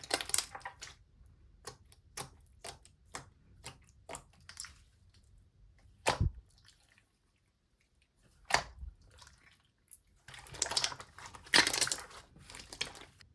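Slime being handled: pressed, poked and stretched by hand, giving a run of small wet clicks and pops, two louder snaps about six and eight and a half seconds in, and a stretch of dense crackling near the end.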